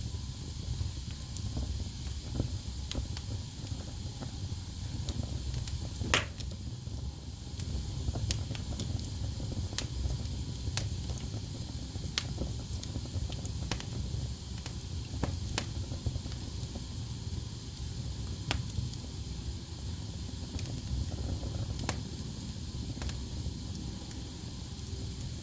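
Wood fire burning in a fireplace: a steady low rumble of flames with a faint hiss, and scattered crackles and sharp pops from the logs, the loudest snap about six seconds in.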